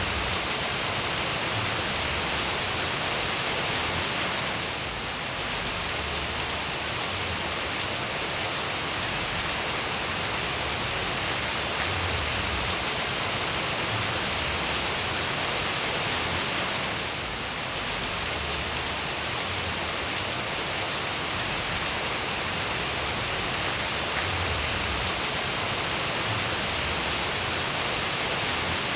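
Steady rain falling: an even hiss with scattered drops ticking. It dips slightly twice.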